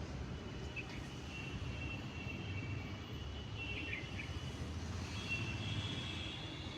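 Outdoor ambience: a steady low rumble with thin high-pitched tones running over it, and short bird chirps about a second in and again about four seconds in.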